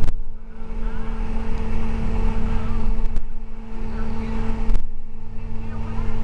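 School bus running on the road, heard from inside the cabin: a low engine rumble with a steady hum, and three sharp rattling knocks.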